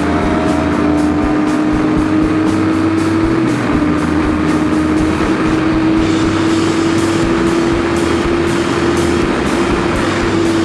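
Motorcycle engine running at steady, slowly rising revs while riding, with background music and a steady beat over it.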